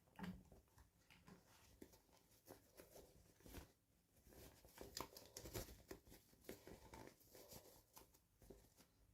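Faint, irregular rustling and small clicks of toy packaging being handled and opened by hand.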